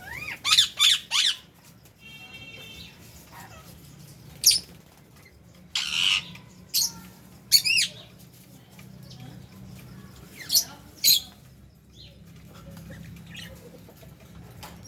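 Lovebirds and budgies in an aviary calling: loud, shrill squawks, three in quick succession at the start, then single sharp calls every second or two, with quieter chatter between.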